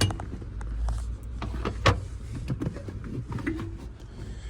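Scattered knocks and clicks of hands moving things about inside a vehicle cab, with one sharper knock about two seconds in, over a low rumble.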